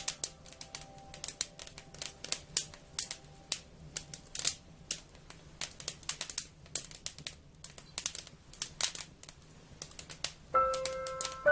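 Wood fire crackling: irregular sharp pops and snaps, several a second. Faint held musical tones die away in the first few seconds, and new musical notes come in about a second before the end.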